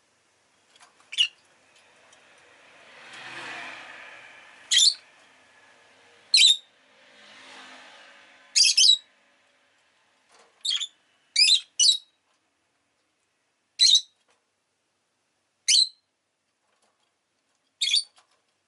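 Rosy-faced lovebird giving about ten short, sharp, high-pitched chirps, spaced a second or two apart. In the first half, street traffic swells and fades twice as vehicles pass.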